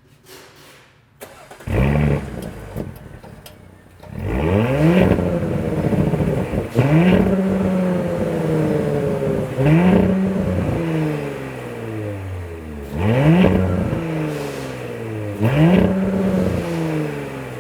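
2018 Audi SQ5's turbocharged 3.0-litre V6, exhaust with the resonator deleted, revved in place: a short blip about two seconds in, then about five longer revs, each climbing quickly and falling back to idle.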